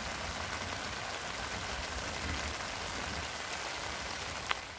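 Steady rain falling on the camp tarps overhead and the forest around, an even hiss, with one light click near the end.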